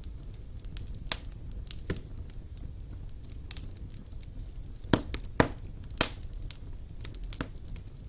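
Wood fire burning in a fireplace: a low steady rumble under sharp, irregular crackles and pops, the loudest three coming close together about five to six seconds in.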